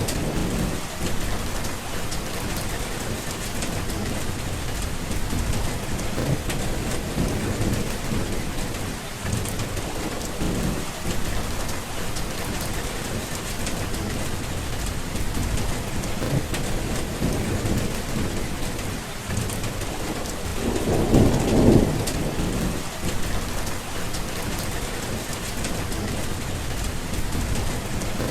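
Steady rain with low thunder rumbling on and off, and one louder roll of thunder about twenty-one seconds in.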